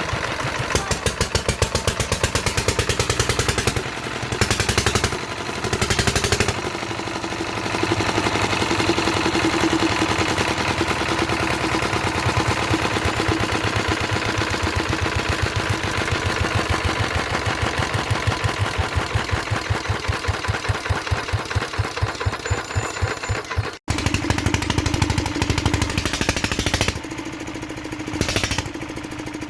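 Kirloskar diesel engine running after a cold start following ten years out of use, with a steady, even chugging firing beat. There is a momentary cut-out about two-thirds of the way through.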